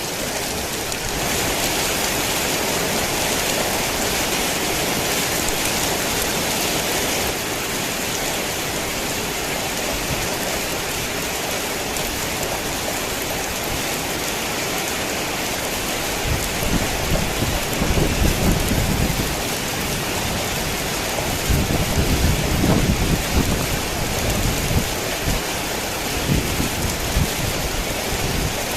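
Heavy rain falling steadily, with low rolling rumbles of thunder that come in waves through the second half.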